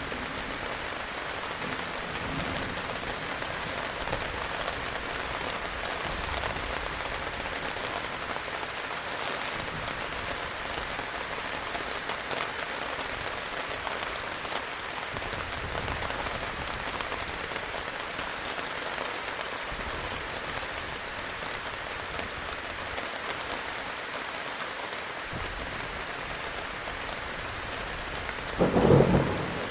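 Steady heavy rain falling, with a sudden loud clap of thunder near the end.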